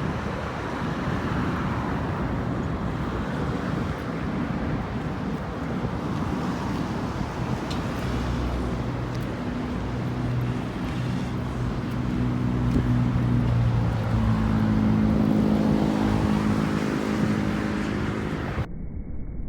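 Steady outdoor rumble and hiss, with a vehicle's engine hum that grows louder in the second half as it passes.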